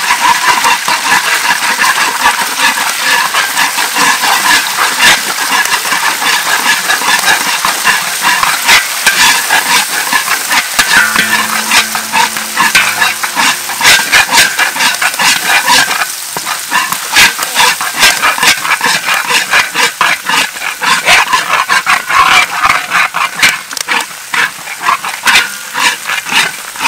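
Eggs sizzling in hot oil in a large iron wok, with a metal spatula scraping and clacking against the pan and eggshells cracked on its rim making many sharp clicks.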